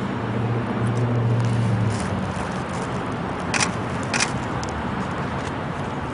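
Parking-lot traffic noise with a steady low car-engine hum that stops about two seconds in, then two sharp clicks about half a second apart.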